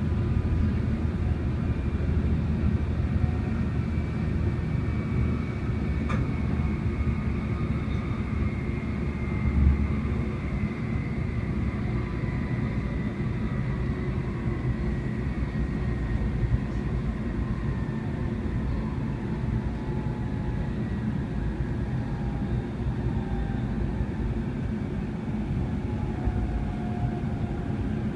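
Hikari Shinkansen heard from inside the passenger cabin while running: a steady low rumble with a faint whine that slowly falls in pitch, and one brief low bump about ten seconds in.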